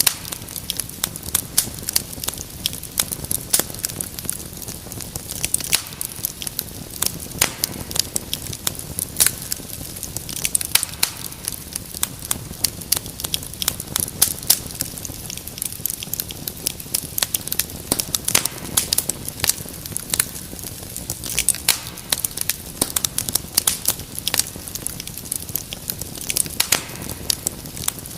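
Wood fire crackling steadily: frequent irregular sharp pops and snaps over a low steady hiss of burning.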